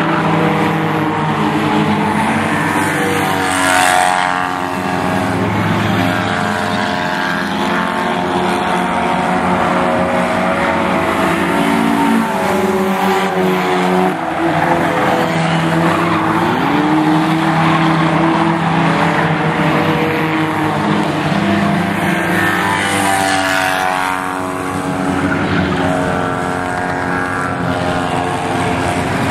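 Race cars running laps in a feature race, several engines droning at once. Cars pass close by about 4 seconds in and again near 23 seconds, their engine note falling as each goes past.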